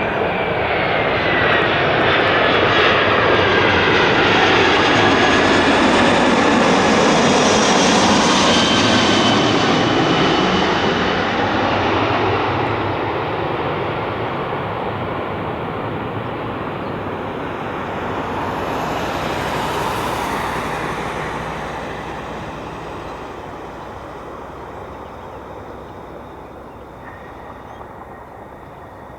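Jet airliner's engines as it passes and flies away: a loud engine noise with a whine that falls in pitch, strongest over the first ten seconds, then fading steadily away.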